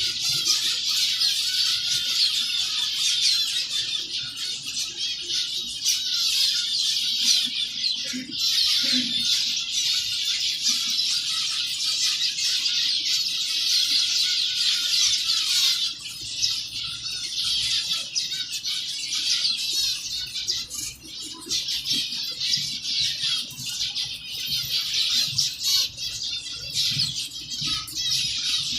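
A colony of zebra finches calling continuously, many short, overlapping, high-pitched calls with no let-up, mixed with flutters of wings.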